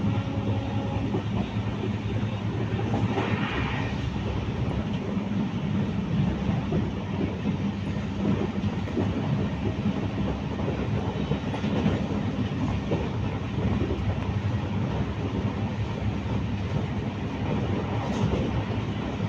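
Train running on the rails: a steady low rumble with continuous rattling and clatter.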